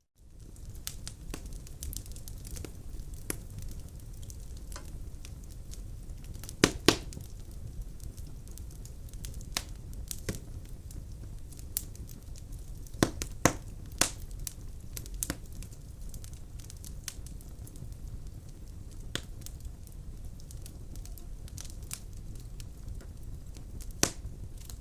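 Wood fire burning in a fireplace: a steady low rumble with frequent small crackles and pops, and a few louder snaps about seven seconds in, around thirteen to fourteen seconds, and near the end.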